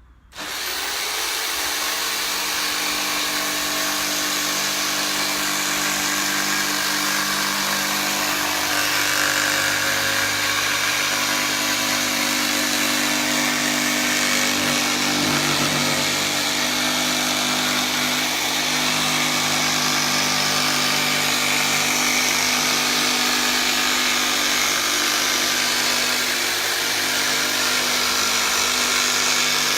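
Corded jigsaw starting up about half a second in and then running steadily, its blade cutting through a wooden board to rough-cut away the excess.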